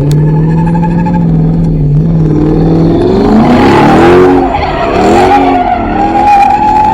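A car doing a burnout or donuts: the engine holds steady revs for about three seconds, then revs rise and fall repeatedly while the tires squeal and skid, the squeal settling into a steady high tone in the second half.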